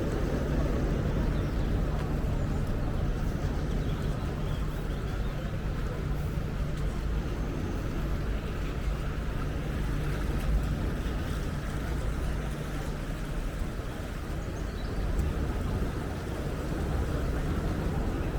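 Steady low engine rumble under an even background hiss.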